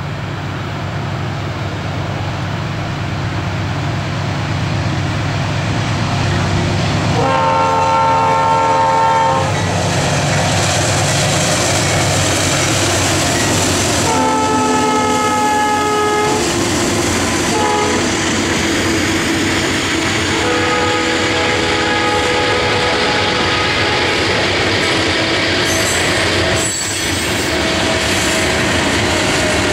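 Norfolk Southern diesel locomotives approach and pass, their engines rumbling louder, sounding the horn in the grade-crossing pattern: two long blasts, one short and a final long one. The tank cars then roll by with the clickety-clack of their wheels on the rail joints.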